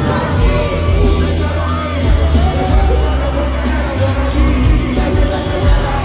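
Live concert music played loud, with a heavy pulsing bass beat and singing, and a crowd yelling and cheering along.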